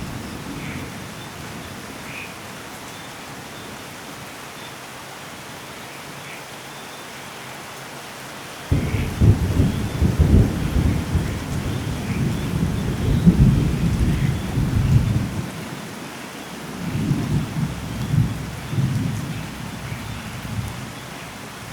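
Steady rainfall with thunder: a rumble breaks in suddenly about nine seconds in, rolls on for about six seconds, then swells again more briefly near the end.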